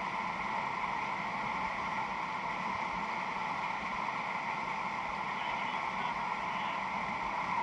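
A steady rushing noise that stays even throughout, with no separate knocks or events.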